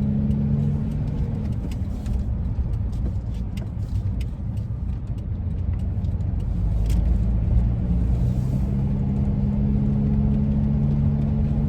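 Cabin sound of a Ford E-350 van pulling away from a stop and driving: engine and road noise, with a steady low hum that fades a couple of seconds in and comes back stronger in the second half.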